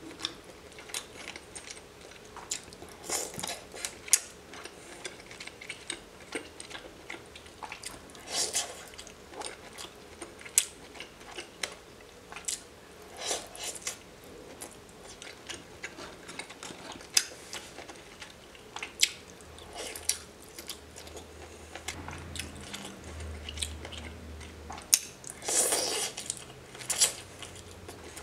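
Close-miked eating of raw seafood, mostly baby squid: wet chewing and biting with irregular sharp clicks and smacks, heaviest near the end.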